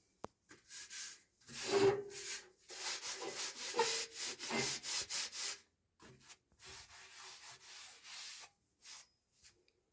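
Repeated rubbing or scrubbing strokes on a wooden surface, a steady run of short strokes that grows louder after the first second or so and softer in the second half.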